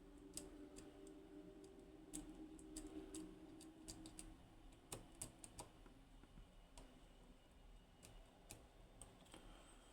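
Faint, irregular small clicks and ticks of a lock pick working the pin stacks inside a high-pin-count lock cylinder under tension, probing for binding pins.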